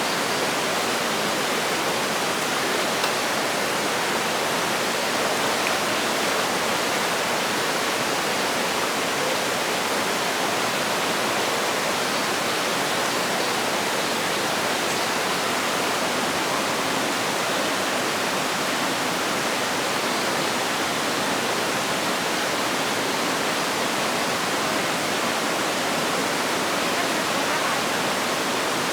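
Steady rushing water, an even hiss that holds without change.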